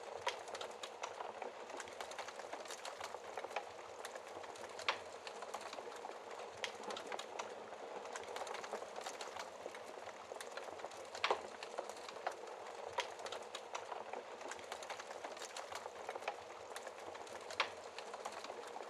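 Wood fire crackling in a fireplace: a steady soft hiss with many scattered sharp pops, a few louder ones about five, eleven and seventeen and a half seconds in.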